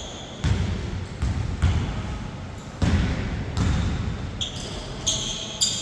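A basketball bouncing on a court in irregular thuds during play, with a few short high squeaks near the end.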